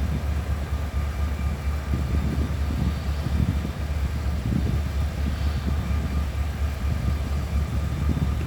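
Diesel-electric locomotive idling with a steady low rumble, recently started up.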